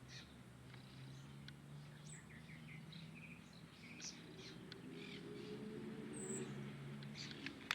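Small birds chirping and twittering in short, high calls scattered throughout, over a faint low steady hum that grows louder in the second half.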